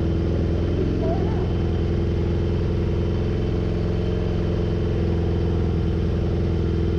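A vehicle engine running steadily at an even speed, with no revving or change in pitch.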